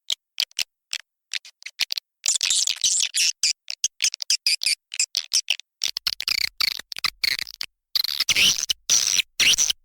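Recorded swiftlet calls: rapid twittering chirps and clicks, chopped into short bursts with sudden silences between them. The calls are sparse for the first two seconds and grow denser, with quick downward-sweeping calls near the end. This is a calling track of the kind played to lure swiftlets into a nesting house.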